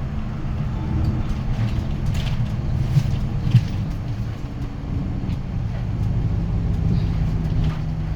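Hyundai Green City city bus's D6GB six-cylinder diesel engine running steadily, heard from inside the cabin, with two sharp knocks about three seconds in.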